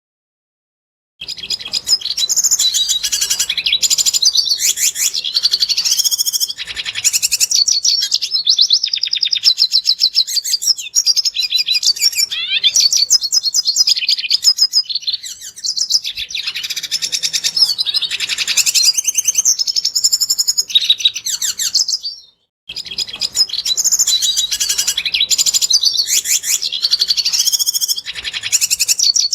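Red siskin singing: a long, fast, continuous twittering song of rapid trills and chattering notes. It starts about a second in, breaks off suddenly for a moment about two-thirds of the way through, then starts again.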